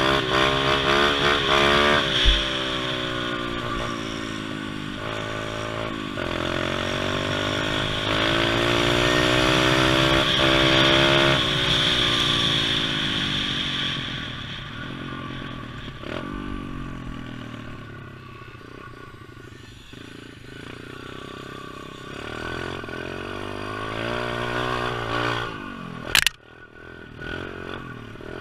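Pit bike engine revving up and easing off again and again under riding, its pitch climbing and dropping, quieter through the middle and picking up again toward the end. A single sharp knock sounds near the end.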